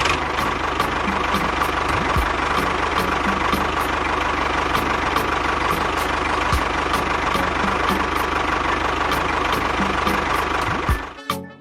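Small engine running steadily with a rapid low chug, cutting off abruptly about eleven seconds in.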